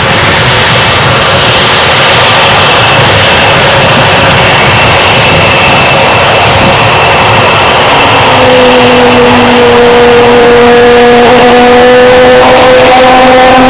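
Airbus A320neo's Pratt & Whitney PW1100G geared turbofan engines running loud: a dense rush of jet noise with steady whining tones. A lower set of whining tones comes in about eight seconds in and starts to rise near the end.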